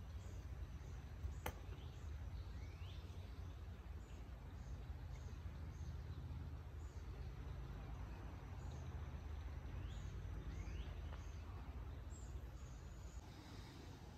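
Small birds chirping, a short high chirp every second or so with a few sweeping calls, over a low steady rumble. One sharp click about a second and a half in.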